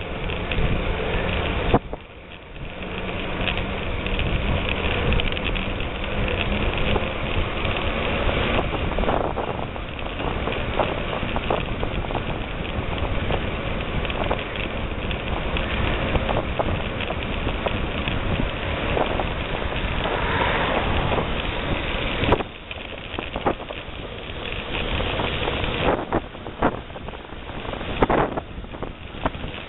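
Wind rushing over the microphone and tyres running on a rough dirt forest road during a bicycle descent, with scattered knocks and rattles from bumps. The noise dips briefly about two seconds in and again around twenty-two seconds.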